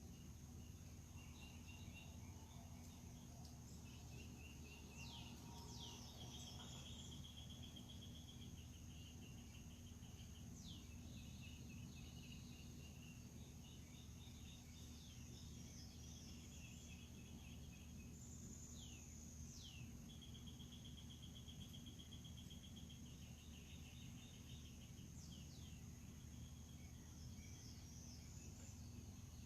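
Faint outdoor birdsong: several birds repeating short trills and quick downward-sweeping calls, over a steady high-pitched insect drone and a constant low hum.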